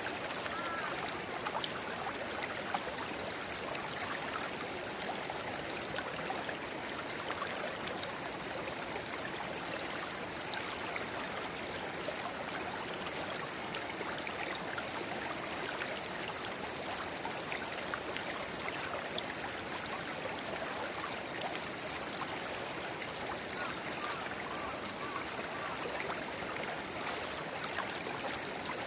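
Shallow river flowing and babbling steadily, with a small spring-fed rivulet trickling into it. Small splashes and drips are scattered through the even rush of water.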